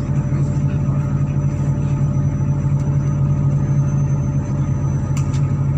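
MAZ-103 city bus heard from inside the passenger cabin: a steady low engine hum and rumble. A brief click comes about five seconds in.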